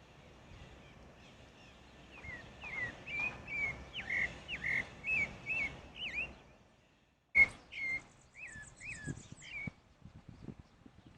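Pale-breasted thrush singing phrases of short, clear whistled notes that slide up and down. The song breaks off briefly in the middle and starts again with a sudden loud knock.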